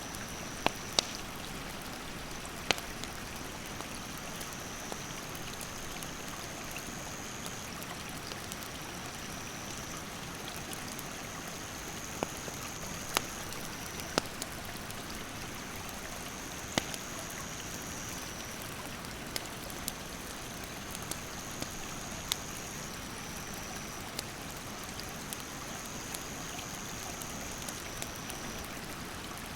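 A stream rushing steadily, with a wood campfire crackling and giving sharp pops now and then. A high, continuous insect trill runs over it, stepping between two slightly different pitches every few seconds.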